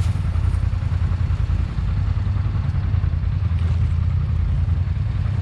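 ATV engine idling steadily, a low even hum with no revving.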